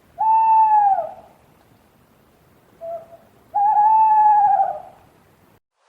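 Owl hooting: two long, steady hoots about three seconds apart, each tailing off slightly in pitch at the end, with a short quieter note just before the second.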